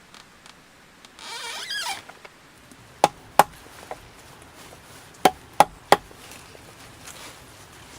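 A short rustling scrape, then six sharp knocks in two groups of three.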